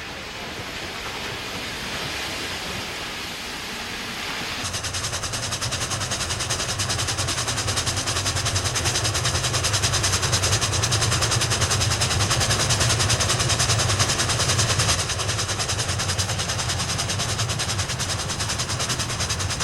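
Santa Fe No. 3759, a 4-8-4 Northern steam locomotive, working hard upgrade. A steady rushing noise gives way abruptly, about five seconds in, to rapid, even exhaust beats over a deep rumble.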